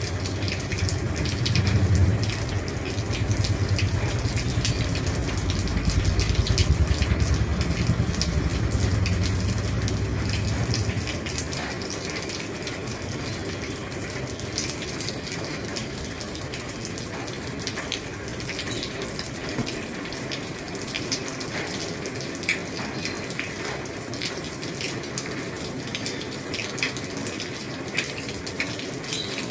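Heavy rain falling on an old roof: a steady hiss with many sharp drop ticks. A deep rumble sits under it for the first ten seconds or so, then fades out.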